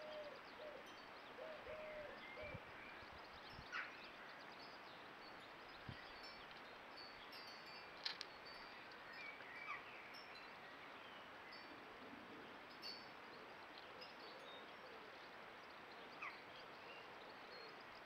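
Faint garden ambience with short, high bird chirps scattered throughout and a few soft taps in the first several seconds.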